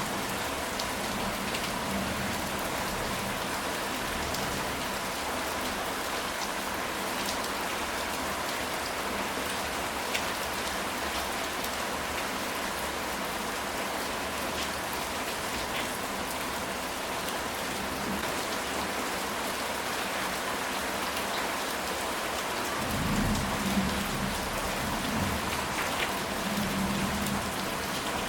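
Steady rain falling on a ceramic tile roof, with scattered individual drop hits. About 23 seconds in, a low rumble of thunder lasts about four seconds.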